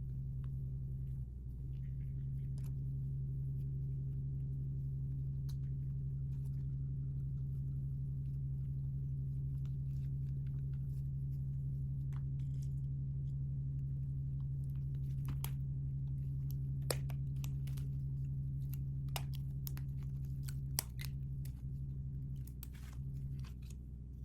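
A steady low hum runs throughout. Over it come scattered small clicks, taps and crinkles of plastic packaging and toys being handled, more frequent in the second half.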